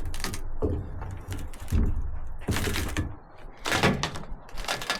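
Rotted wooden truck-bed boards being pulled loose and handled: about half a dozen irregular knocks and cracks.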